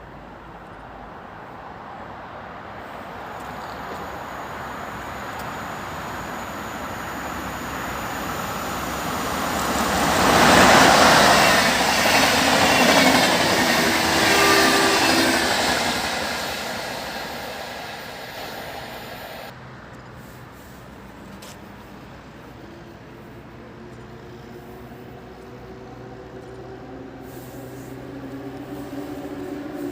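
Train hauled by an EU07 electric locomotive passing through a station. It grows louder to a peak about ten to sixteen seconds in, then fades away. After an abrupt cut, a quieter, steady low hum of another train remains.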